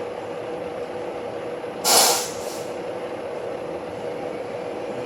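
A steady hum with a faint steady tone, broken about two seconds in by a short, loud hiss and a second, weaker hiss just after.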